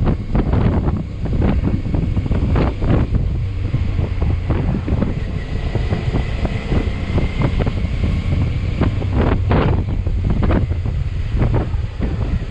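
Wind buffeting the microphone of a moving motorcycle, a constant gusty rumble, with the bike's engine running steadily underneath.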